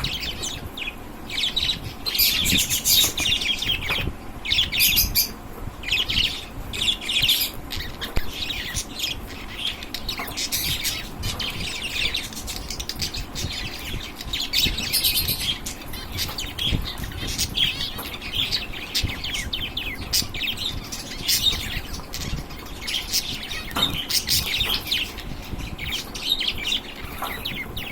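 A group of finches chirping together, with many short, high calls overlapping one another without a break.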